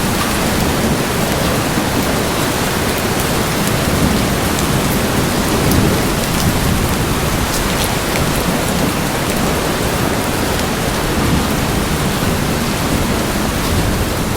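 Steady rain falling on hard surfaces, a dense even hiss with scattered sharp drop ticks and a low rumble underneath from the thunderstorm.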